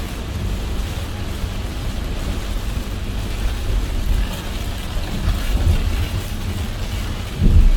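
A car driving in heavy rain: a steady low rumble of tyres on the wet road with the hiss of rain. There is a brief louder low thump near the end.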